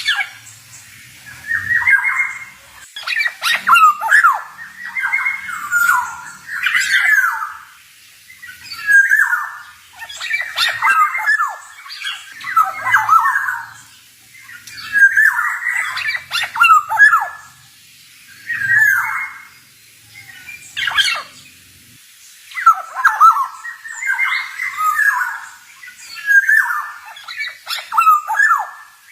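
Male black-naped oriole (kepodang) singing: a string of short phrases, each a second or two long, with brief pauses between them.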